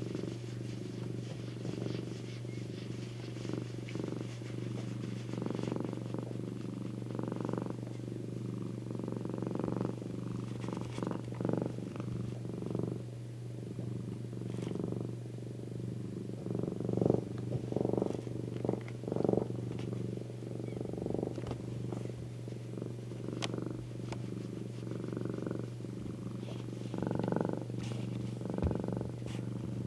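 Domestic cat purring close up: a steady low purr that swells in soft pulses about once a second.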